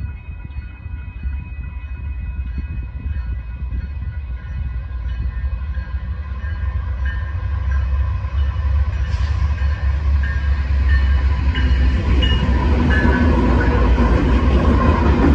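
Level-crossing warning bells ringing steadily as a Union Pacific freight train's GE diesel locomotives approach and reach the crossing. The low rumble of the engines and wheels grows steadily louder through the second half.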